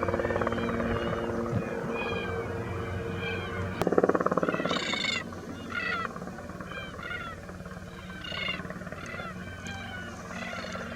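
A flock of black cockatoos calling, short harsh cries repeated again and again, over a helicopter's rotor and engine. The helicopter is loud at first, peaks about four seconds in and then fades into the background.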